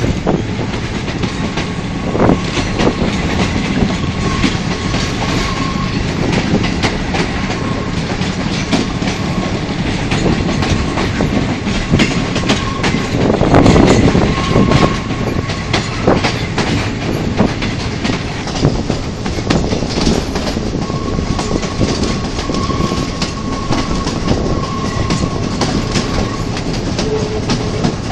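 Sri Lanka Railways diesel locomotive running at speed, heard from its cab with the side window open: a steady rumble with wheels clicking over rail joints and wind rushing past. A faint high steady tone comes and goes, and the noise swells for a moment about halfway through.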